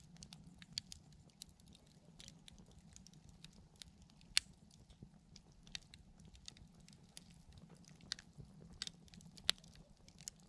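Wood campfire crackling: irregular small pops and snaps, a couple of them sharper, over a faint steady low hum.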